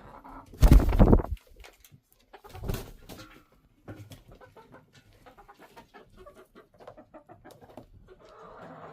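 Chickens clucking in a coop. About a second in there is a loud, brief rustling burst, and a smaller one follows near three seconds, then faint scattered clicks and scratches.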